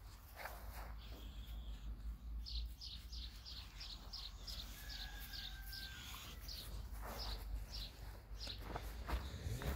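A bird calling in the background: a series of short, high, repeated notes, about two to three a second, starting a couple of seconds in and stopping near the end, over a low steady rumble.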